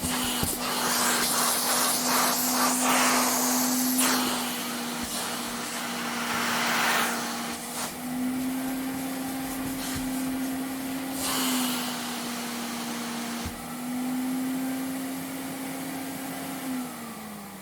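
Vacuum cleaner running, its motor holding a steady hum while the rush of suction air swells and fades several times. Near the end the motor's pitch drops as it slows down.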